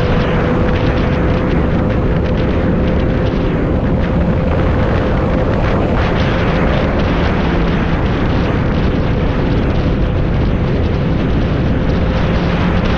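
Motorcycle cruising at a steady speed: loud wind rush over the microphone with the engine's steady drone underneath, its pitch creeping slightly upward.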